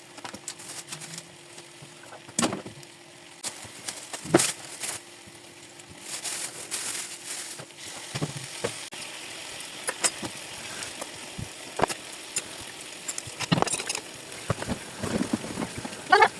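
Kitchen food-preparation sounds: irregular knocks and clicks of utensils and dishes, with a couple of seconds of hissing noise about six seconds in.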